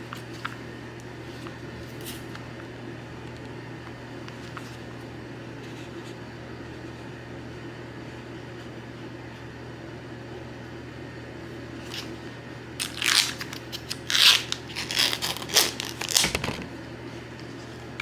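A steady low hum, then, about thirteen seconds in, a three-second flurry of loud crunching and crinkling noises, like something being crumpled or torn.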